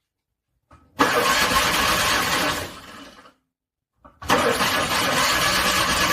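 Car engine cranked on its starter in two attempts without catching: a cold engine struggling to start in freezing weather. The first attempt starts about a second in and trails off after about two seconds, and the second starts about four seconds in and keeps going.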